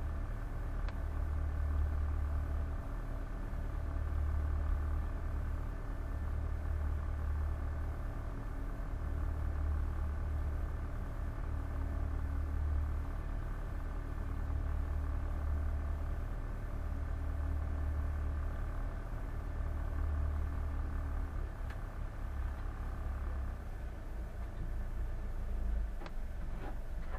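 Boat engine running steadily: a low drone that swells and fades every couple of seconds, with a steady hum over it that eases off a few seconds before the end. A few sharp clicks near the end.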